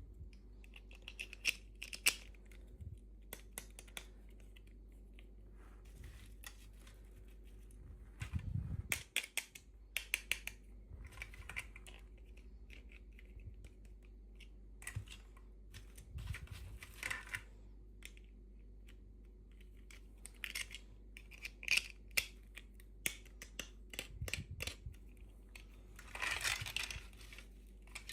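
Hands unboxing small plastic toy packaging: scattered clicks and taps with short bursts of crinkling and tearing, busiest about a third of the way in and again near the end.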